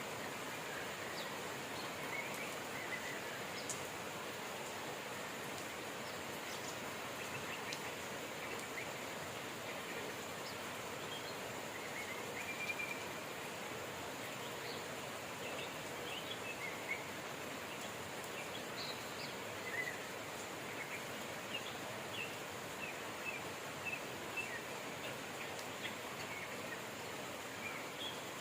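Steady rain with birds chirping: short, scattered chirps over the even hiss of the rain, more of them in the second half.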